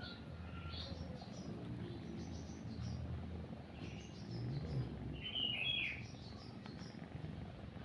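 Small birds chirping in short, scattered calls, the loudest cluster about five and a half seconds in, over a cat's low, steady purring.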